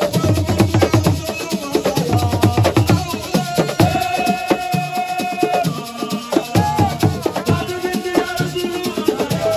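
Live assiko percussion music: fast rattling and clicking hand percussion over deep drum strokes about once a second, with a voice singing long held notes over it, the longest about four seconds in.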